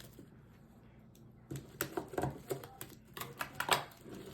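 Irregular sharp clicks and light knocks of things being handled, starting about a second and a half in and going on for about two and a half seconds.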